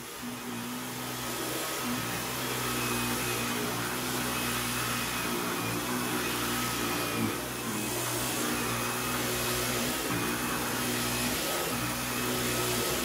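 A household electric appliance motor running steadily: a whirring hum over a broad hiss, with brief small dips in level.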